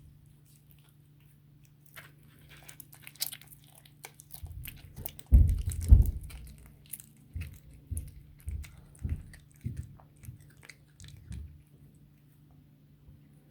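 Cat chewing and crunching on a raw chicken back, teeth cracking the bones. The bites are scattered at first and loudest about midway, then come as a run of separate chomps that stop shortly before the end.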